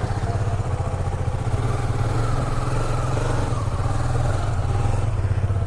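Motorcycle engine idling steadily, with a fast even pulse.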